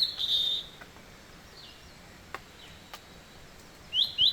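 Rainforest birds calling with short, high chirps at the start and again near the end. Two faint clicks sound in the quiet middle stretch.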